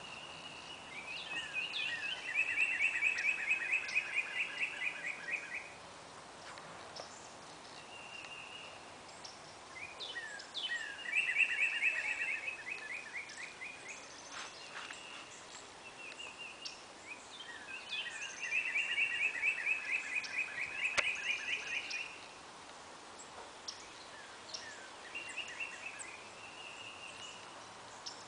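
A songbird repeating a long, fast, even trill, three songs spaced several seconds apart, with shorter chirps from other birds in between.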